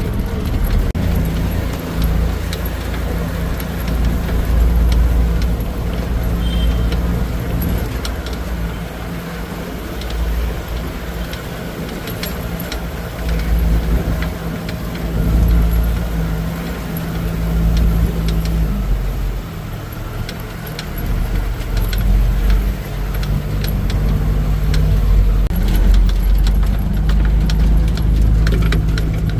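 Tuk-tuk (auto-rickshaw) riding along, its small engine running with a steady drone whose pitch shifts a few times, over a heavy low rumble. The cab and its fittings rattle throughout.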